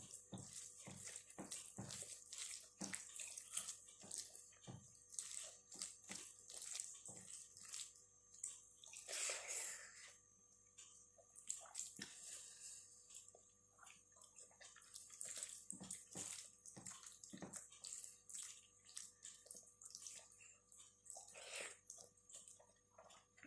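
Close-up wet eating sounds: irregular chewing, lip smacks and squelches of soft food such as palak paneer with rice. A longer wet smear about nine seconds in.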